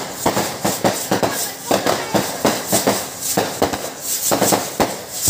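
Fireworks going off in a rapid, irregular run of bangs and crackles, several a second.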